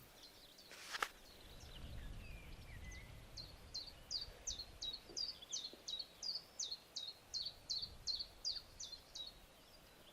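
A songbird singing a long, even series of short, high notes, each sliding downward, about three a second. There is a single sharp click about a second in and a faint low rumble beneath.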